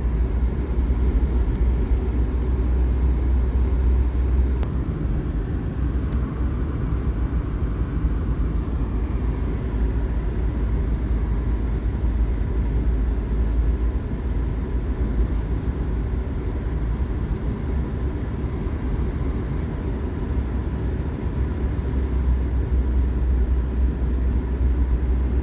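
Steady low rumble of tyre and engine noise from a car driving along, heard from inside the cabin.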